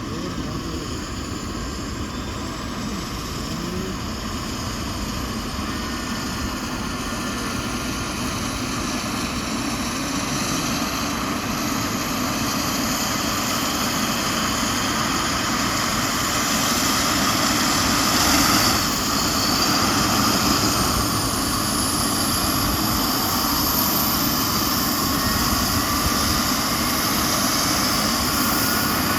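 Eurocopter EC135 helicopter's turbine engines starting up: a whine that slowly rises in pitch as the engines spool up, growing louder for the first two thirds, then holding steady.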